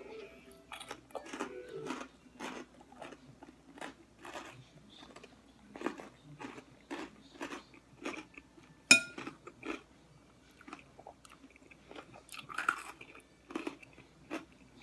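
Close chewing of a mouthful of salad with romaine lettuce and croutons: irregular crunches about two a second. A single sharp click about nine seconds in is the loudest sound.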